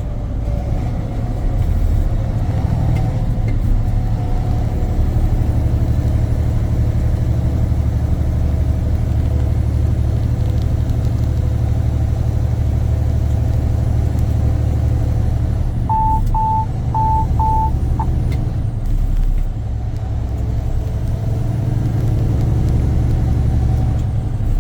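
Semi-truck engine and road noise heard from inside the cab while cruising on the highway, a steady low rumble. About two-thirds of the way in, four short electronic beeps sound in quick succession.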